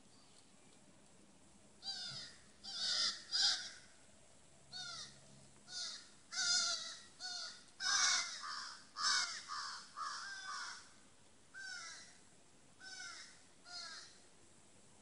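A bird calling repeatedly in the woods: a series of short, harsh calls, each falling in pitch, starting about two seconds in and coming roughly once a second, some in quick pairs.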